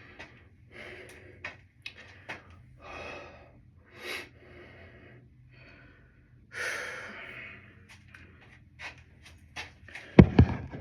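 A person breathing heavily, one noisy breath every second or two, with scattered small clicks and a loud thump near the end.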